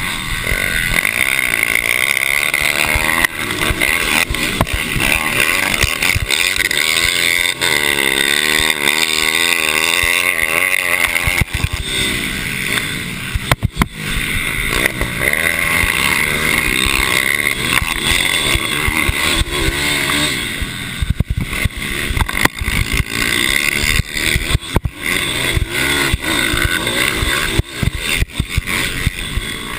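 Small racing mini bike engines at high revs, the pitch rising and falling repeatedly through gear changes and corners, with brief sharp dips in the sound.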